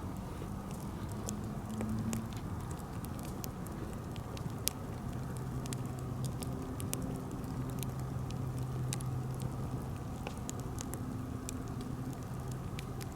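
Birch-wood campfire crackling, with frequent sharp pops and snaps scattered irregularly over a steady low rush of the flames and a faint low hum.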